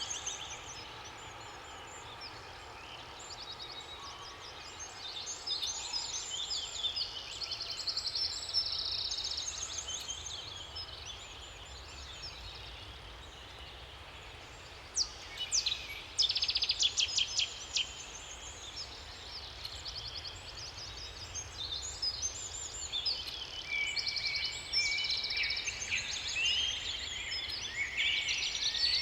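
Several songbirds singing at once, overlapping whistled phrases and trills, with a loud rapid trill a little past halfway. A faint low background noise runs underneath.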